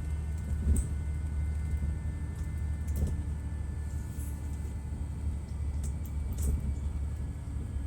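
Detroit Diesel Series 60 inline-six diesel in a 2002 MCI D4000 coach running steadily with a deep, even drone. A few light clicks or rattles come through about three and six seconds in.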